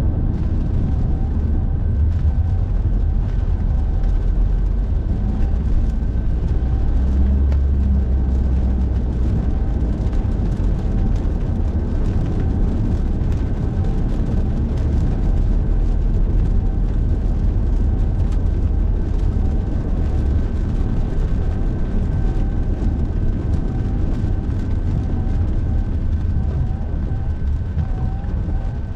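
Car driving at speed: a steady, loud low rumble of engine and road noise with a hiss of tyres on the road, and a faint steady high tone.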